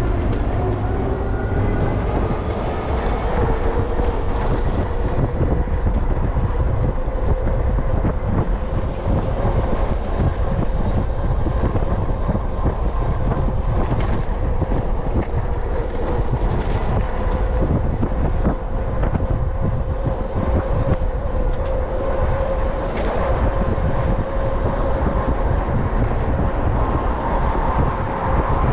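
Electric bike's hub motor whining as the Lectric XP Lite rides along, the whine rising in pitch over the first couple of seconds as it picks up speed and then holding steady. Wind buffets the microphone throughout.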